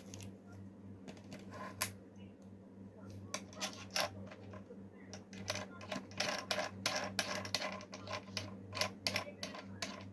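Irregular light clicks and clattering from a mini sewing machine, over a steady low hum. The clicks come thicker in the second half.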